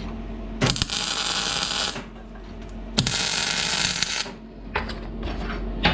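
MIG welder laying two short tack welds on steel, each a crackling hiss of a little over a second that starts with a sharp snap, the first about half a second in and the second about three seconds in. A few light metal clinks follow near the end.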